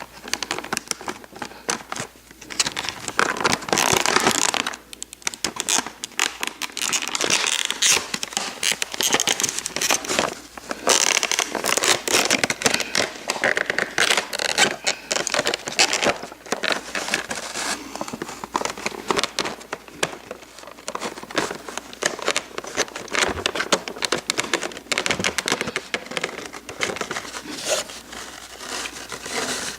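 Plastic packaging crinkling and crackling as it is peeled off and handled, with dense irregular rustles and small clicks throughout.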